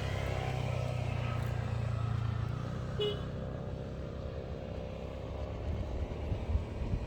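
Motor vehicle engine humming steadily, with a short high toot about three seconds in, then a rougher low rumble.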